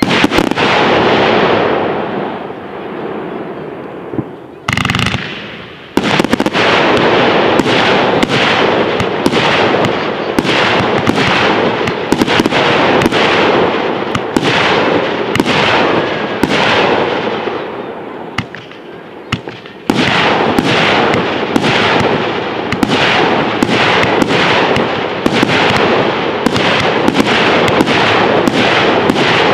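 Fireworks display: aerial shells going off in a rapid barrage of bangs, many overlapping. The barrage thickens from about six seconds in, eases briefly near nineteen seconds, then comes back just as dense.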